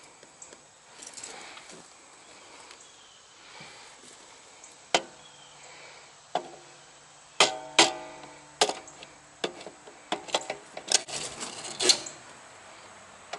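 Sharp metallic clicks and clanks with brief ringing, starting about five seconds in and clustering near the middle: a circuit breaker being worked back into a metal electrical panel.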